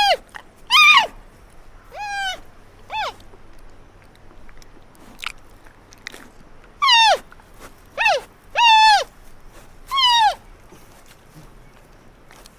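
Giant panda calling: a series of short, high whining cries, each rising and then falling in pitch. There are three near the start and four more after a pause of a few seconds.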